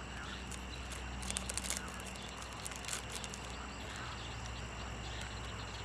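Quiet outdoor pond ambience: a steady low hum and faint hiss, with a brief flurry of faint high clicks about a second and a half in.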